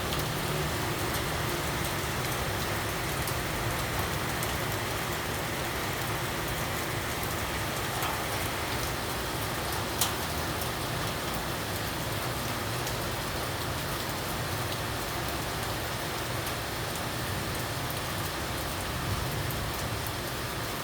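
Steady rain falling, an even hiss with no let-up, and one sharp tick about halfway through.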